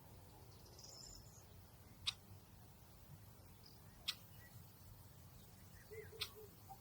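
Faint outdoor nature ambience: a low, quiet rumble with three short, sharp chirps about two seconds apart and a brief high twitter about a second in.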